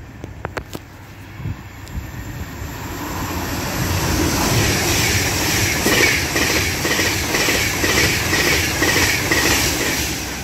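Avanti West Coast Class 390 Pendolino electric train approaching and passing at speed. It makes a rush that grows louder, then a steady, regular clatter of wheels over the rail joints as the carriages go by, easing off near the end.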